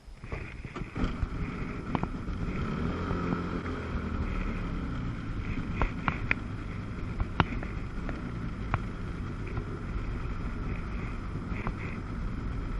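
Jet ski engine running under way, with wind on the microphone and water slapping and splashing against the hull in scattered sharp knocks. The sound comes up suddenly right at the start.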